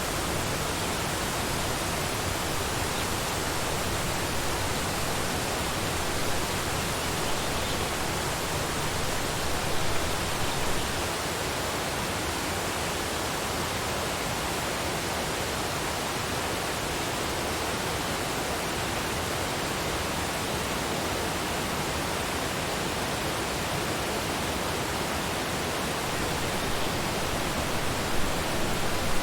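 Waterfall pouring steadily, a dense even rush of falling water with small surges in loudness now and then.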